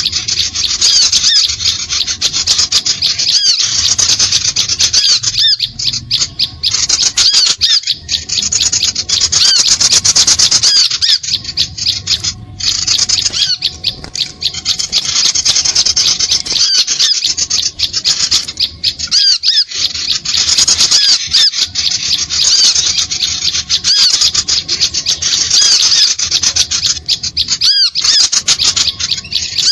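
Bird-lure recording of small birds calling: a loud, dense stream of rapid high-pitched chirps and squeaks, broken by brief gaps every few seconds.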